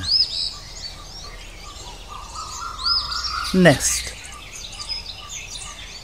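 Birdsong: a high, arched chirp repeats about every three seconds over a steady bed of softer, fainter bird calls.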